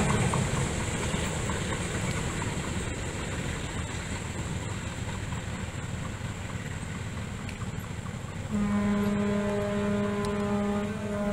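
Locomotive-hauled passenger train drawing away along the track, its rumble fading. About eight and a half seconds in, a long steady horn note starts and holds.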